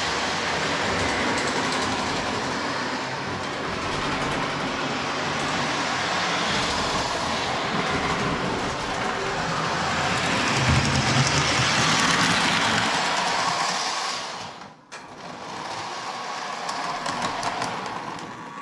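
Lionel 208 Santa Fe Alco O-gauge toy locomotive's electric motor and gearing running along the track with wheel clatter, getting louder around the middle. The sound cuts out for a moment about 15 seconds in, then resumes more quietly.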